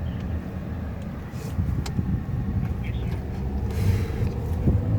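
Steady low rumble of a car's engine and tyres on the road, heard from inside the cabin, with a couple of faint clicks.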